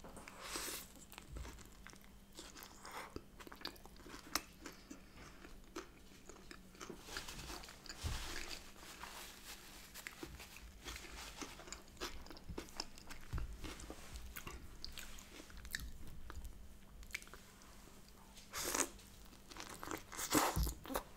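A person chewing a bagel filled with smoked salmon, cream cheese, lettuce and onion: soft, wet chewing with many small mouth clicks, and a louder bite near the end.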